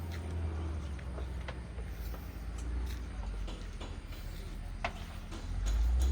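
A diesel engine runs with a steady low rumble that swells louder near the end, with scattered light metallic clicks and knocks over it.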